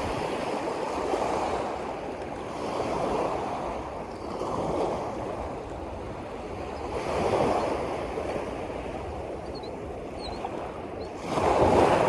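Waves washing in, in repeated surges every couple of seconds, the strongest one near the end.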